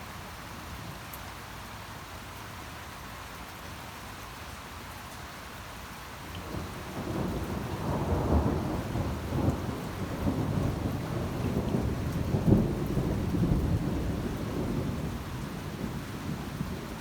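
Steady rain falling, then a long roll of thunder that builds about six seconds in, rumbles on with peaks, and slowly eases off near the end.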